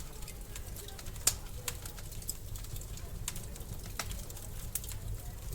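Wood fire in a fireplace burning with a low steady rumble and irregular sharp crackles and pops, one louder pop about a second in.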